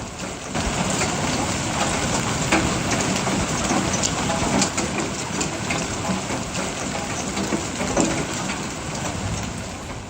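Heavy hail pelting down: a dense, steady clatter of stones with many sharp single hits standing out. It eases off slightly near the end.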